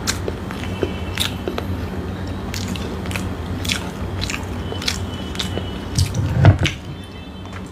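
Close-miked chewing and biting of a fried samosa, its crisp pastry giving sharp little crunches. Near the end comes a louder dull thump.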